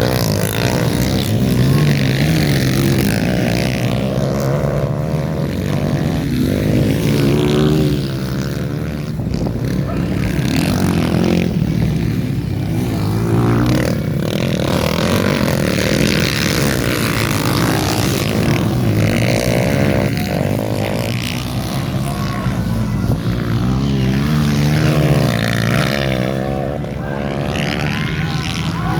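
Dirt-bike racing motorcycles running continuously, their engines revving up and down over and over.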